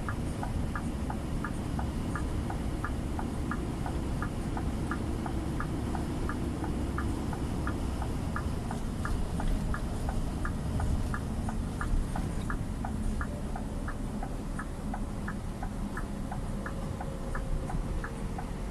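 Truck indicator ticking steadily, about one and a half ticks a second, over the low rumble of the Scania G460's diesel engine and road noise inside the cab.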